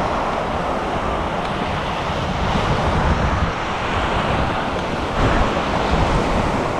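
Surf washing on a beach, a steady rush of water, with wind rumbling on the microphone.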